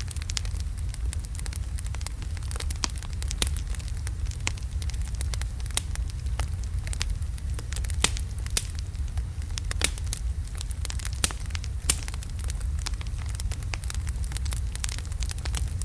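Wood fire of large burning logs crackling: a steady low rumble of flame with frequent sharp, irregular pops and snaps.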